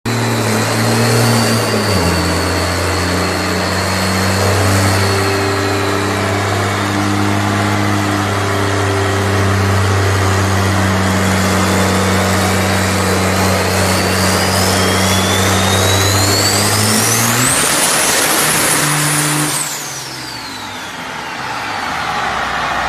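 Dodge Ram dually truck engine running with a steady low drone, and a high whistle that climbs slowly for several seconds, holds, then drops away quickly near the end.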